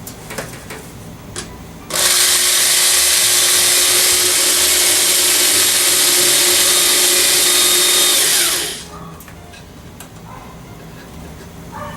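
Power drill running for about six and a half seconds, drilling old rubber out of a pin hole in the metallophone's wooden frame. It starts abruptly and winds down as it stops, with light tapping before and after.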